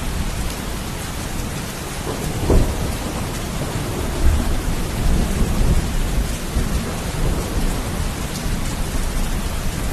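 Steady heavy rain with rolling thunder rumbling underneath. A louder thunder clap comes about two and a half seconds in, and another surge follows about four seconds in.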